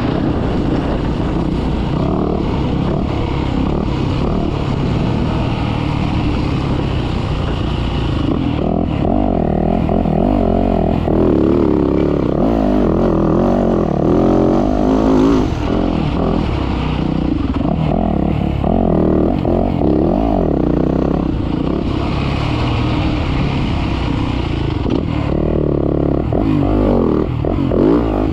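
Motocross dirt bike engine running hard under load, its pitch rising and falling again and again with the throttle.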